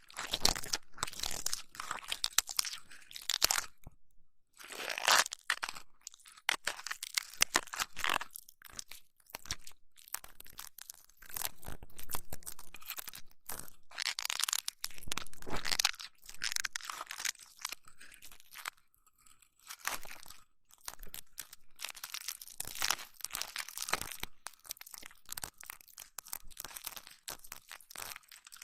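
Close-miked ear massage: fingers rubbing and pressing on a microphone's ear, making crunchy, crackling bursts with short pauses between strokes.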